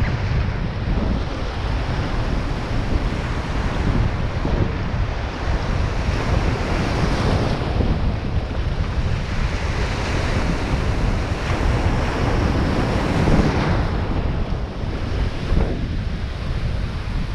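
Wind buffeting the microphone over the steady wash of sea water and waves, the hiss of the water swelling and easing every few seconds.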